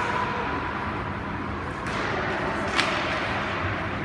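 Ice hockey play in a rink: a steady hiss of skating and arena noise, broken by two sharp cracks of stick and puck about two and three seconds in, the second louder.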